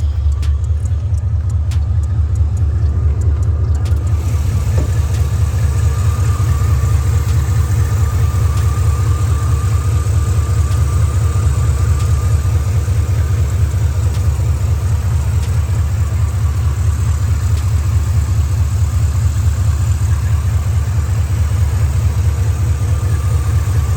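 Box Chevy Caprice's engine idling with a steady, deep exhaust rumble, unchanging throughout, with a few faint clicks in the first few seconds.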